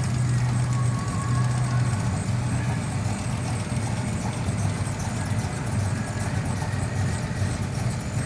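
A vehicle engine idling with a steady low hum, a little stronger in the first couple of seconds.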